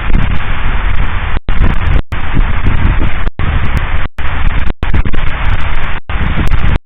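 Fireworks salute booming and crackling, so loud that it overloads the recording into a dense, distorted roar, broken by several brief dropouts in the sound.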